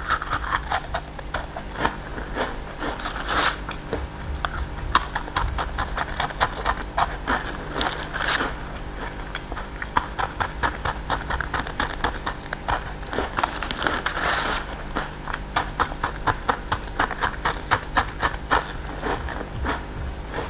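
Crisp stick-shaped potato snack being bitten and chewed: a long run of sharp crunches in quick clusters.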